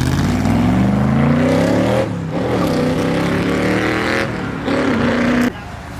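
A car engine accelerating hard, its pitch rising steadily, with a brief dip at an upshift about two seconds in. It climbs again, shifts once more around four seconds, holds, then cuts off suddenly near the end.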